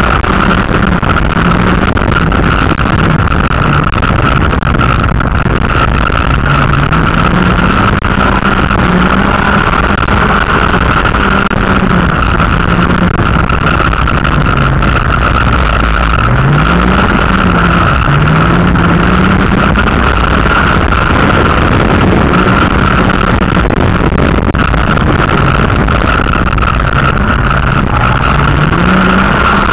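A dirt-track race car's engine heard loud from inside the cabin, its revs repeatedly rising and falling as it accelerates and lifts.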